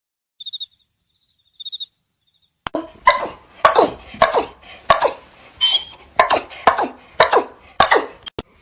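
Faint high chirps for the first couple of seconds. After that, a pet gives about ten short calls in a row, each falling in pitch, nearly two a second.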